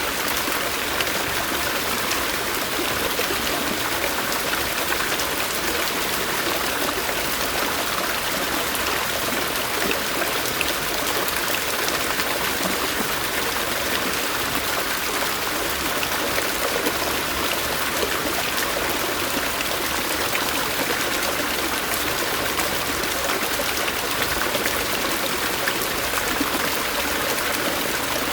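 Stream water running over rocks: a steady rushing hiss with fine splashing and trickling detail.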